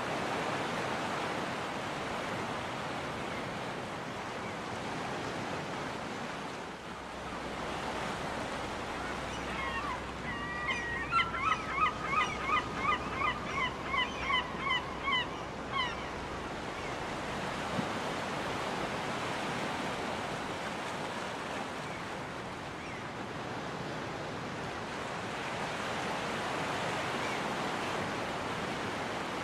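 Ocean surf washing steadily onto a beach, swelling and easing. About a third of the way in, a seagull gives a rapid series of about a dozen short calls lasting some six seconds.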